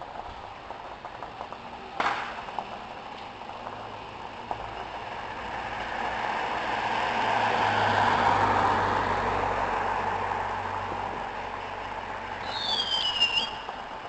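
A single firework bang about two seconds in, then a passing vehicle's engine and road noise swelling to a peak midway and fading away. Near the end a firework whistles briefly.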